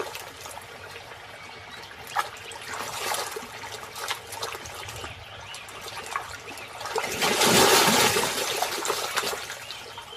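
Crocodiles thrashing in water: churning splashes, with short bursts of splashing and a long, loud surge of splashing about seven seconds in.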